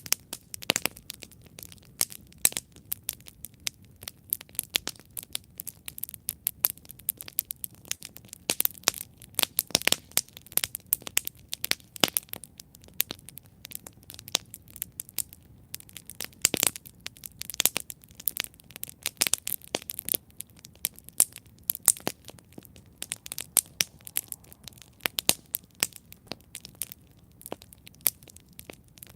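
Campfire crackling: burning wood snapping and popping in irregular sharp cracks, some much louder than others, over a low steady rush of the flames.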